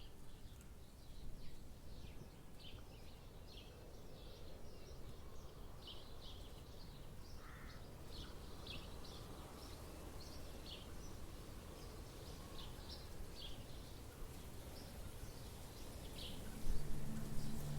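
Forest ambience: many short, high bird chirps scattered throughout over a steady low rumble. Soft sustained music tones come in near the end.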